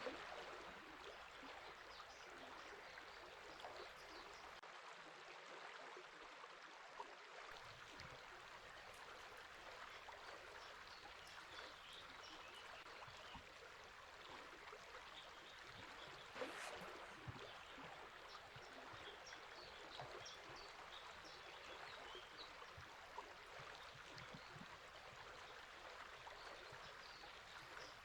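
Faint, steady flow of a river, with brief high bird chirps scattered through.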